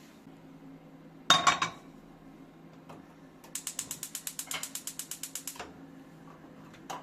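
A sharp clatter, then a rapid run of ratchet-like clicks, about ten a second, for about two seconds from a small hand-worked mechanism.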